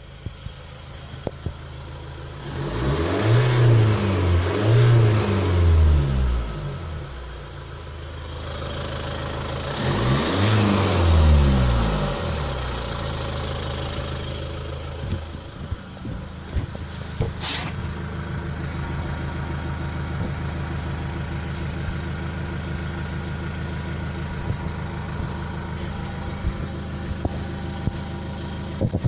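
Kia Sportage 4 CRDi common-rail diesel engine running with the muffler removed, exhaust unsilenced. It idles, is blipped up three times in quick succession a few seconds in, revved once more about ten seconds in, then settles back to a steady idle.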